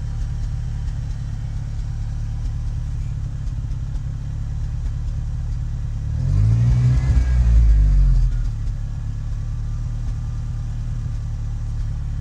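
1986 Ford Ranger's 2.3-litre four-cylinder engine idling unevenly, the inconsistent rough idle the owner can't fix. About six seconds in it is revved once, rising and falling over about two seconds, then drops back to the uneven idle.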